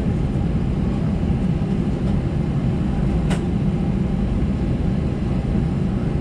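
Steady low rumble in the cabin of an Airbus A320-214, its CFM56 engines running at ground idle after pushback, with one brief click about three seconds in.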